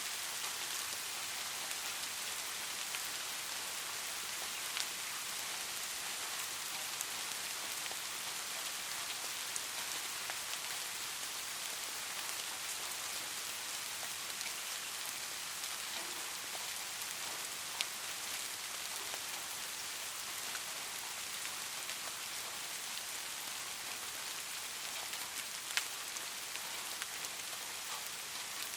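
Light rain falling steadily in an even hiss, with a few isolated louder drop taps.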